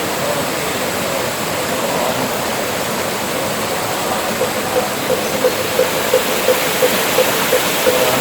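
Mountain valley stream, a steady rush of running water. From about halfway in, a regular pitched tapping, about three a second, sounds over it.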